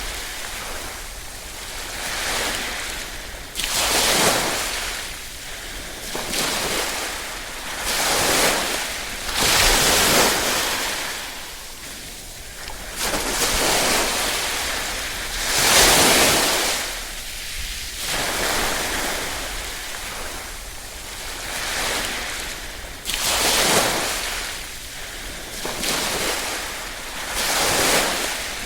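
Small waves washing onto a shore, each one swelling and fading every two to three seconds.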